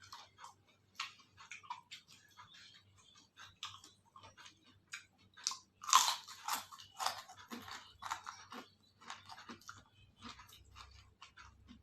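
A person chewing and biting crunchy food close to the microphone: a run of crisp crunches and mouth clicks, with the loudest burst of bites about six seconds in.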